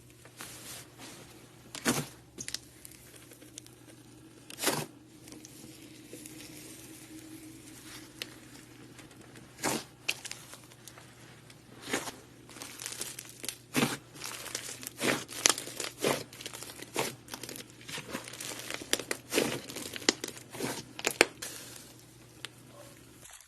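Slime handled by hand, giving irregular sharp crackling pops, sparse at first and coming thicker in the second half.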